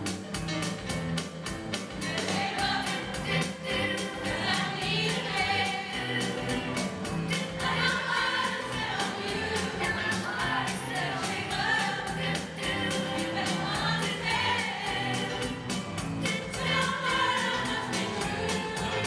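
A choir singing a 1970s pop song over a band with a steady beat.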